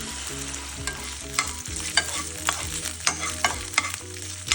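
Marinated chicken pieces sizzling in hot oil in a pan, a steady frying hiss, with sharp clicks of a utensil stirring and knocking against the pan about every half second.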